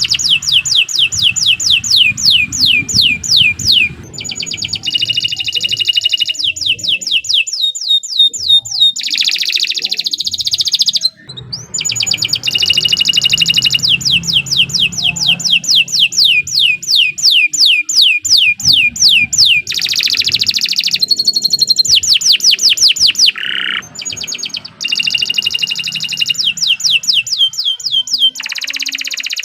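Domestic canary singing a long, continuous song: fast trills of repeated falling notes, about eight a second, alternating with buzzy rolling phrases, with only brief breaks.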